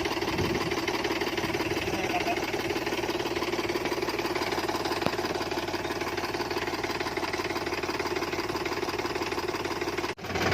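A farm machine's engine running steadily with a fast, even knocking beat, briefly breaking off near the end.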